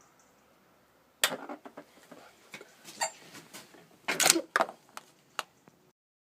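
Mauser M97 straight-pull bolt-action rifle being handled: a sharp metallic click about a second in, then a run of clicks and clacks as the bolt is worked, the loudest cluster a little after four seconds. No shot goes off, as with a misfired round.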